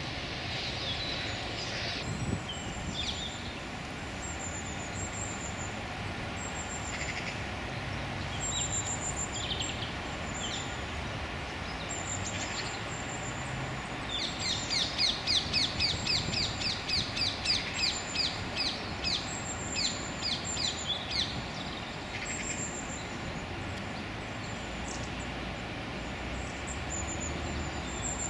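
Wild birds calling: thin, high calls repeat throughout, and about halfway through a loud, rapid series of harsh chattering notes runs for some seven seconds, over a steady background noise.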